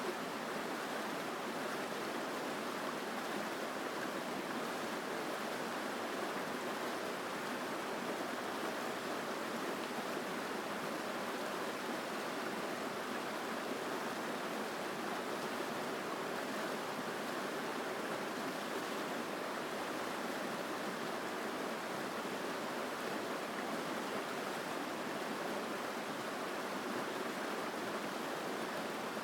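Mountain stream running strongly, a steady, unbroken rush of water.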